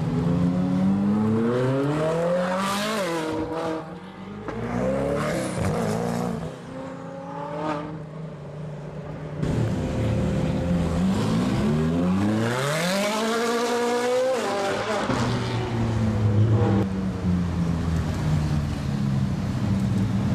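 Ferrari 458 Speciale's naturally aspirated V8 through a Capristo exhaust, revving hard as the car pulls away, with the pitch climbing and dropping sharply at each gear change. This happens twice. In the last few seconds it settles to a lower, steadier note at low revs, slowly falling in pitch.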